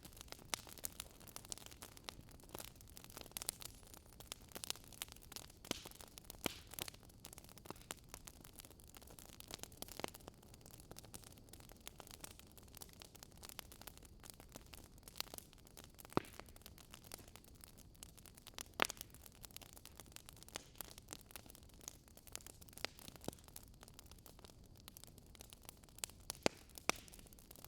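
Fireplace crackling: irregular sharp pops and snaps over a soft steady hiss, a few pops louder than the rest.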